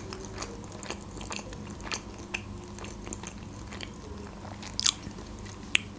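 Close-up mouth sounds of a person chewing food: soft wet clicks and smacks, with two sharper clicks near the end.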